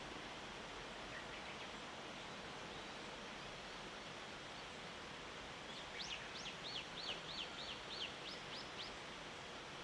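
A small bird gives a quick series of about ten sharp, high, sweeping notes, roughly three to four a second, starting about six seconds in and lasting about three seconds. It sounds over a steady faint background hiss of morning outdoor ambience.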